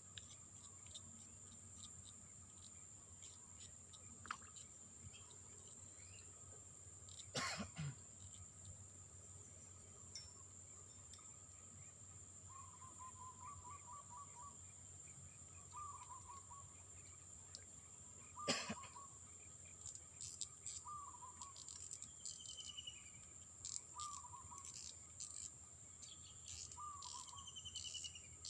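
Faint, steady high-pitched drone of insects, with a short chirping call repeating about every two seconds from about halfway through. Two sharp knocks stand out, one about a third of the way in and one about two-thirds in.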